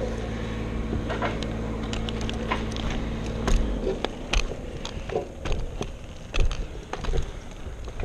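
A motor idling with a steady low hum that cuts off about three and a half seconds in, with scattered knocks and clicks throughout.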